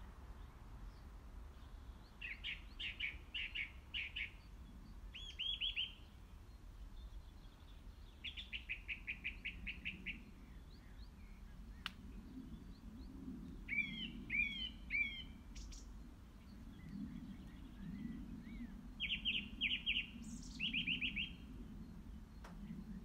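Birds singing: several fast trilled phrases of quick repeated notes, a few seconds apart, with a few separate chirps between them, over faint low background noise.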